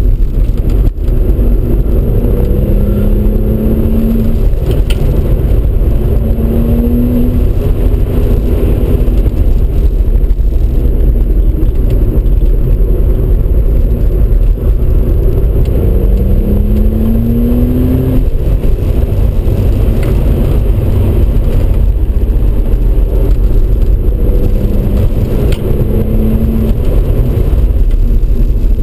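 Audi RS4 B5's twin-turbo V6 heard from inside the cabin at speed, under a heavy low rumble of engine and road noise. The engine note rises four times as the car accelerates.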